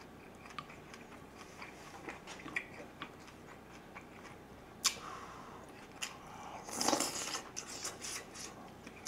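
Close-miked eating sounds: wet chewing of a mouthful of lettuce-wrapped spicy pork and rice, with many small mouth clicks. A sharp click comes about five seconds in, and a louder rustling burst about seven seconds in.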